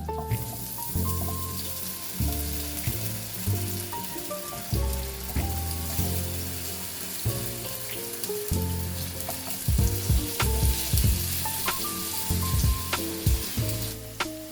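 Food sizzling as it fries in a pan, a steady hiss that begins right at the start and stops shortly before the end, with a few light ticks in the second half. Soft instrumental background music with a plucked bass plays underneath.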